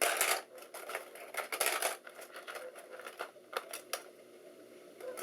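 Irregular clicks and clatter of RAM memory modules being handled and sorted by hand, with a cluster of knocks in the first two seconds and sparser clicks after.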